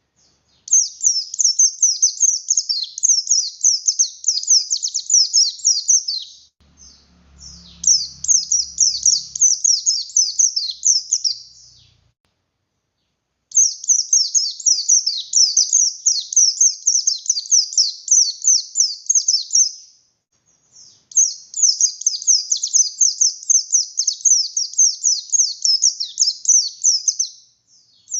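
Pleci buxtoni white-eye singing a fast, high twittering song in four long bursts of several seconds each, with short pauses between them.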